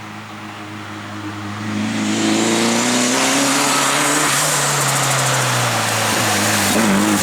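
Toyota Celica rally car engine under hard acceleration: quieter at first, it gets much louder about two seconds in, its pitch climbing, drops back once past the middle and climbs again near the end.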